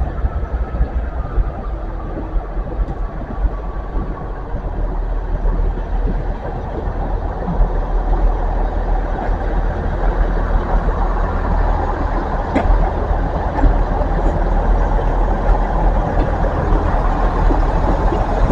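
Diesel train engine running steadily beside the platform: a constant low hum under a rushing noise that grows a little louder about six seconds in.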